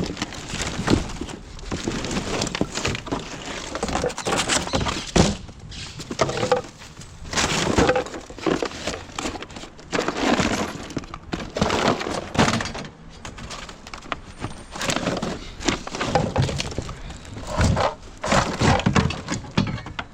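Rubbish being shifted and rummaged through in a skip: a long irregular run of clattering knocks and glassy clinks of hard debris.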